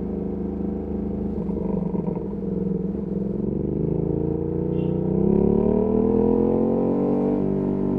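Ducati Panigale V2S's V-twin through a Termignoni exhaust, running steadily at low revs, then rising in pitch from about halfway through as the bike accelerates, and levelling off near the end.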